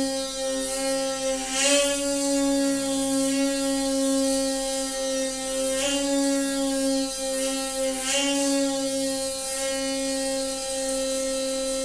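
Noisy water pipe humming with a loud, steady pitched drone and a ladder of overtones. The tone catches and wavers briefly three times.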